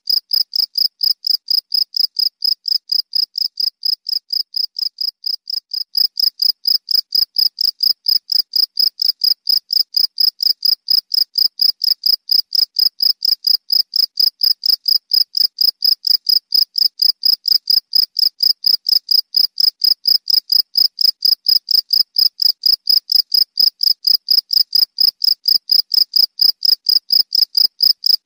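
Cricket chirping steadily: an even, high-pitched pulsing at about four chirps a second.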